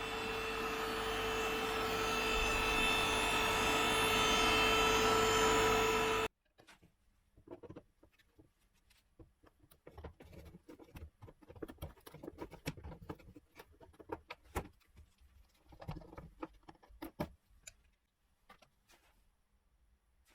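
A steady machine hum with a whine, which cuts off abruptly about six seconds in, followed by scattered light clicks and taps.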